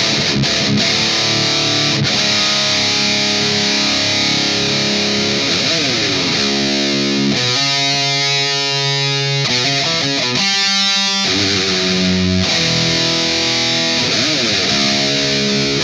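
Electric guitar played through a driven amp, riffing with long sustained notes in the middle and string bends about six seconds in and again near the end.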